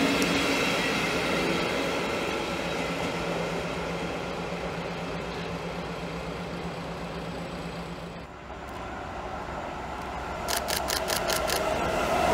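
Passenger coaches of a departing electric-hauled train rolling away on the rails, fading steadily with a low steady hum. After a sudden break, a class 186 electric locomotive hauling a container train approaches and its rumble grows louder, with a quick run of about six sharp clicks near the end.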